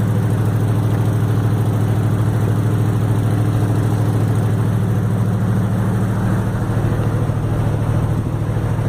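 Speedboat's V8 engine running steadily at idle, with no revving.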